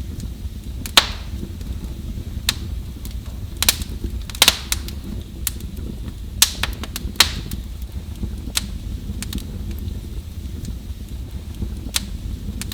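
Wood fire burning in a fireplace: a steady low rumble of flames with sharp, irregular crackles and pops, several louder snaps in the first half.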